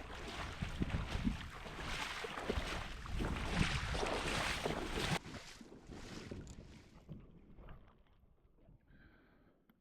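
Gusting wind from a snow squall blowing across the microphone, cutting off abruptly about five seconds in and leaving only faint noise.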